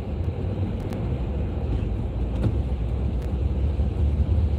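Car driving, heard from inside the cabin: a steady low road and engine rumble with a few faint ticks.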